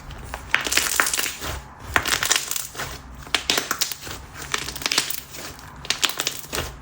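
Thick, chewy slime being stretched and squeezed by hand. It gives off irregular clusters of sharp clicking and crackling pops.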